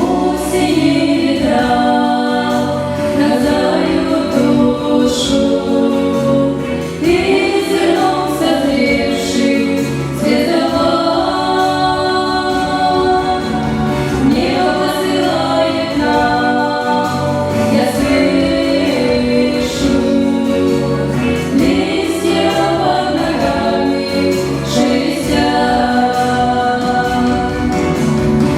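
A family group singing a song together in several voices.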